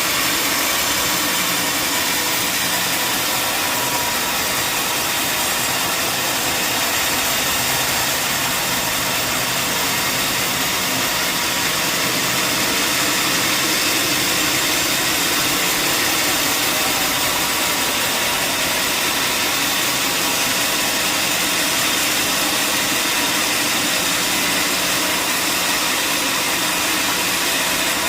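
Sawmill machinery running steadily: a constant engine-like drone with a dense, hissing noise over it and no change in pitch or level.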